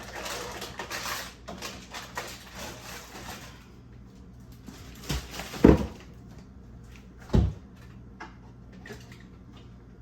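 Food packaging rustling for the first few seconds, then three thumps, the loudest about halfway through, as items are taken out of a refrigerator and set down.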